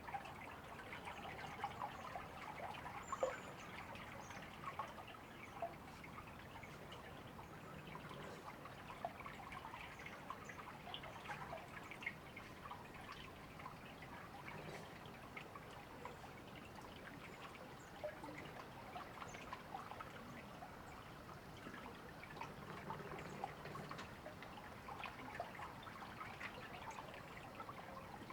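A shallow river trickling and babbling over stones, with many small splashes and drips.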